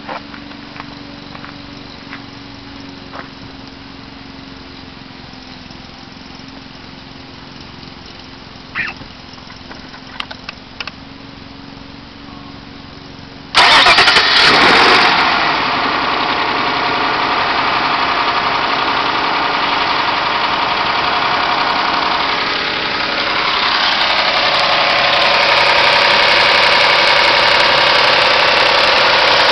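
Mazda Xedos 6's 2.0 litre KF V6 starting from cold about halfway through, after a quieter stretch with a few clicks, then idling steadily. It idles with the clatter this engine makes only when cold after a morning start, a strange sound whose cause the owner does not know.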